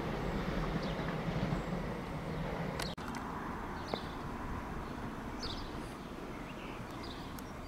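Train rumbling, its noise slowly fading away, with a brief sudden dropout about three seconds in. A few faint high chirps come later.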